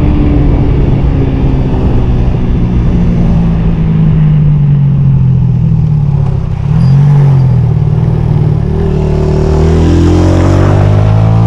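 Honda CG 125 motorcycle's single-cylinder four-stroke engine running under load as it is ridden. The revs dip briefly about six and a half seconds in, then climb steadily near the end as it accelerates.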